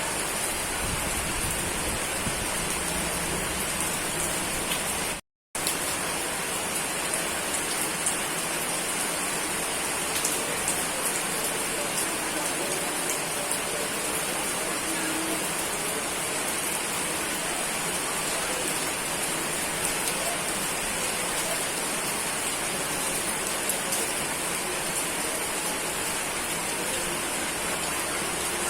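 Steady rain falling: an even hiss with faint scattered drop ticks. The sound cuts out completely for a split second about five seconds in, then resumes unchanged.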